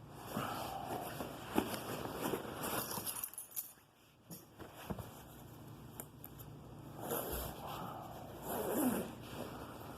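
Rustling and scraping of small objects being handled, with a few sharp clicks, in uneven bursts and a quieter lull near the middle.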